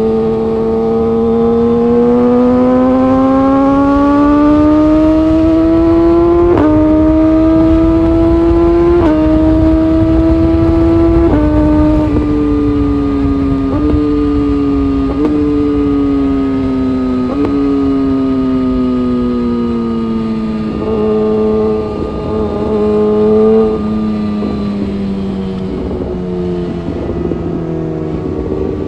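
Honda CBR600RR inline-four engine under way, its revs climbing steadily and then stepping through quick gear changes. The revs then fall with a series of downshifts, each one jumping the pitch back up, over a steady low wind rumble.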